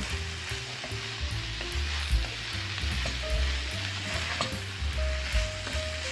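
Shredded carrots sizzling steadily as they are stir-fried in a pan, with a few sharp clicks of the stirring utensil against the pan.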